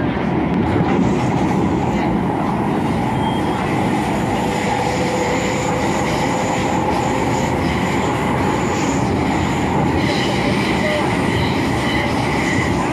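MTR Kwun Tong Line M-Train running, heard from inside the car: a steady rumble of wheels and running gear with high-pitched squealing tones that grow stronger near the end.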